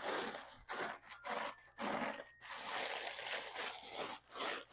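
Cornflakes being crushed inside a plastic zip-top bag: a run of irregular crunching and crinkling bursts.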